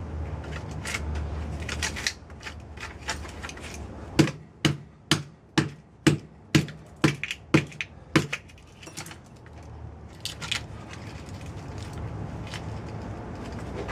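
Hammer blows on a microwave oven transformer: a run of about nine sharp knocks, about two a second, with lighter clicks before and after over a low steady hum.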